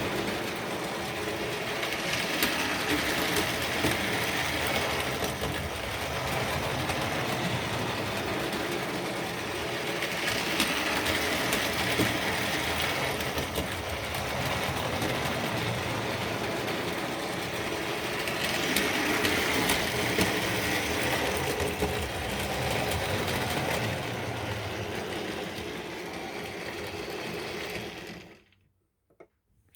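Tri-ang OO-gauge model train running on its track: a steady whirr and rattle that swells and fades about every eight seconds, then cuts off abruptly near the end.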